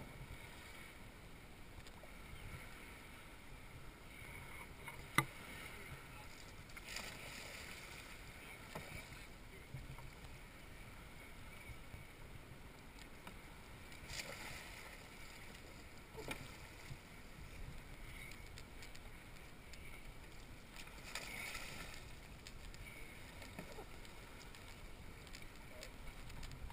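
Faint water splashing and sloshing around a sea kayak during Greenland-style rolls, swelling in bursts about every seven seconds, with one sharp knock about five seconds in.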